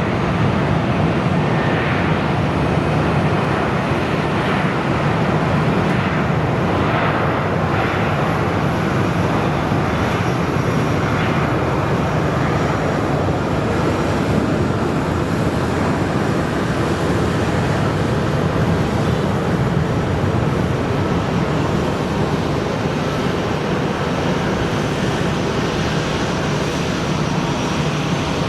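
Jet airliner engines running, a loud, steady wash of noise with a faint high whine joining about a third of the way in.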